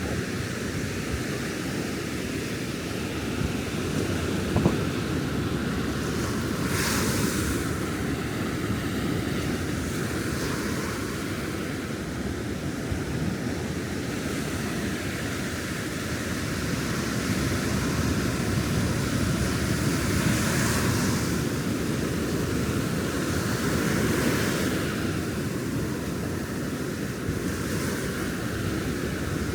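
Ocean surf breaking and washing up the sand, swelling into a hiss every few seconds over a steady low rumble of wind on the microphone. There is one short knock about five seconds in.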